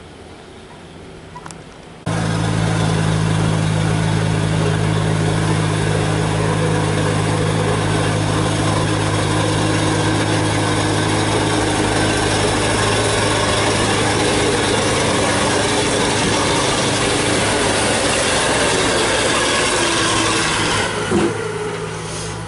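Heavy truck's diesel engine running hard at steady revs, labouring under a heavy coal load on a steep climb. It comes in abruptly about two seconds in and drops back shortly before the end.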